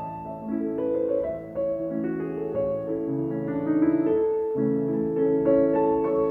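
Background music: a piano melody played over held chords.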